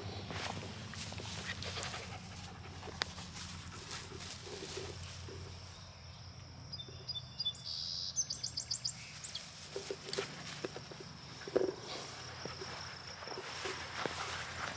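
Mini Australian Shepherd panting in short repeated breaths, with scattered light clicks and a brief run of high chirps about seven to nine seconds in.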